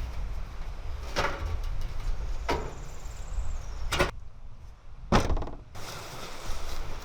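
Four sharp knocks, spaced about a second or more apart, over a steady low rumble of wind on the microphone.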